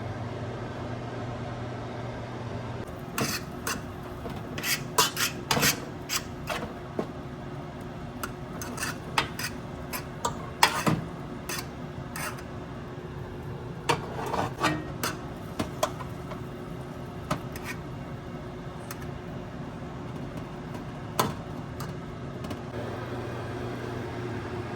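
Scattered clatter, clicks and scraping of small hard objects being handled, bunched in the first half with a last knock near the end, over a steady low hum.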